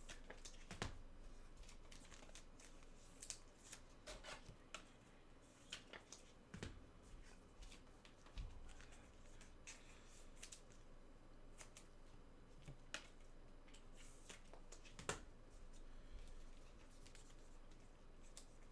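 Faint handling of trading cards and their packaging: scattered soft clicks and rustles, the sharpest about 15 seconds in.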